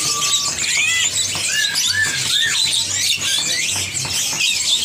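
Many caged songbirds chirping and calling at once, with a run of short, arching whistled notes over a dense twittering.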